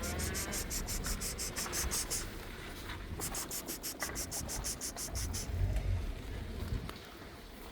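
Insect chirping outdoors: a high, fast, even pulsing of about six chirps a second in two long runs, with a break of about a second between them. A steady low rumble lies beneath.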